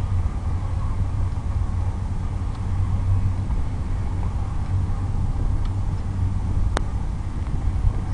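Hard wind buffeting the microphone, a steady low rumble, with one sharp click near the end.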